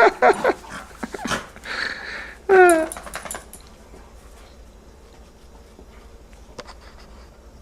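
A dog whimpering and yelping in short pitched cries, the loudest a falling yelp about two and a half seconds in, as if hurt. A few light clicks follow.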